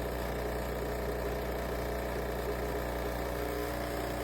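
Fully automatic coffee machine running with a steady, even mechanical hum. It has been running on like this for over a minute without making coffee, and it will not reset: the machine is stuck in a fault.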